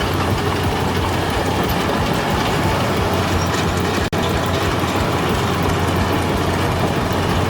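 Heavy diesel machinery running: a steady low engine hum under dense mechanical clatter. The sound cuts out for an instant about four seconds in, then carries on.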